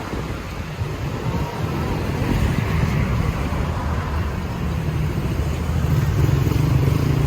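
Street traffic: a motor vehicle's engine running close by, a low rumble that grows louder through the second half.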